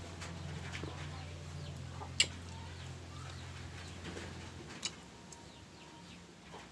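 Chewing of crisp slices of unripe green mango, with one loud sharp crunch about two seconds in and a softer one near five seconds. A steady low hum runs underneath and stops after about four and a half seconds, and faint bird calls sound in the background.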